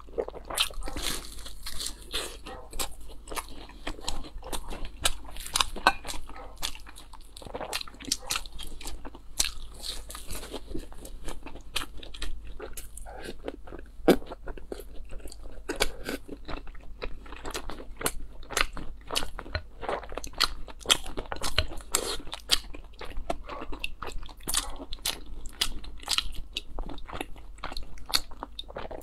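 Close-miked eating: crunchy bites and chewing of crisp fried bread, a dense run of crackly mouth sounds.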